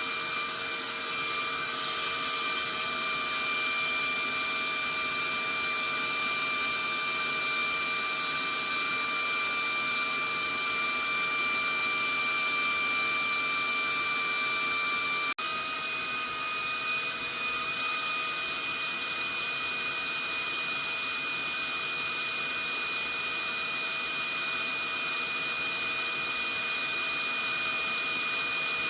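Vacuum cleaner running steadily: a loud rushing of air with a high motor whine. About halfway through it breaks off for an instant and resumes a little louder, its whine slightly higher.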